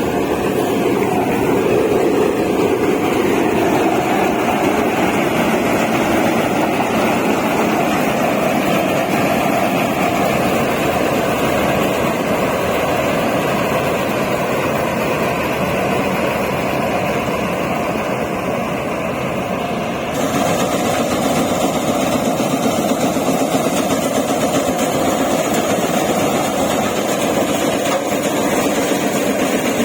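Heavy diesel machinery engine running steadily under work. The tone shifts abruptly about two-thirds of the way through.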